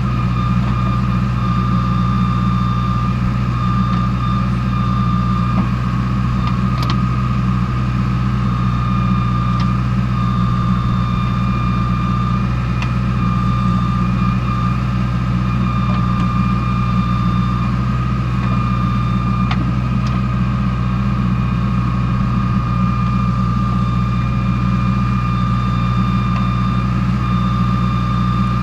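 Diesel engine of a JCB 2DX backhoe loader running steadily at low revs while it loads sand. Over it, a high reversing-alarm tone sounds in long stretches broken by short gaps, and there are a few sharp clicks.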